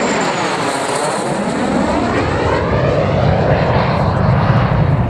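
MiG-15UTI jet trainer's turbojet passing low and loud: a high whine drops in pitch about a second in, then the sound deepens into a low rumble as the jet moves away.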